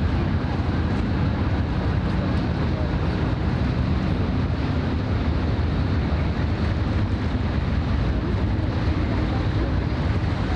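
Steady low rumble of a large ship's engines, with wind buffeting the microphone.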